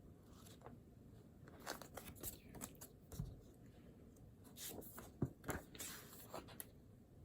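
Paper and stationery being handled at a desk: scattered short rustles, scrapes and taps, in two clusters, with the sharpest tap about five seconds in.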